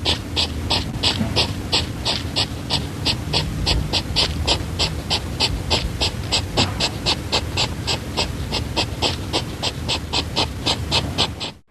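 An animal making fast, evenly spaced puffs of breath, about four a second, over a low rumble. The puffs cut off abruptly near the end.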